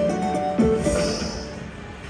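Slot machine (pokie) game music from a Dragon Train machine: a run of pitched notes that dies away over the second half.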